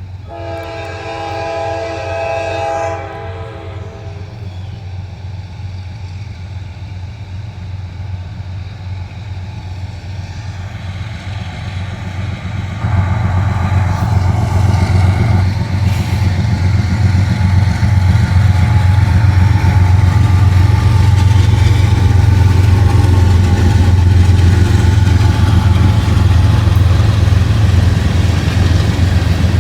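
Norfolk Southern locomotive horn sounding one long blast of about three seconds, followed by a steady low rumble that jumps sharply louder about halfway through.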